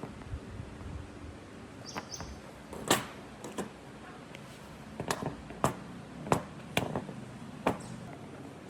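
A string of sharp knocks and taps at uneven intervals, the loudest about three seconds in, with a brief bird chirp about two seconds in.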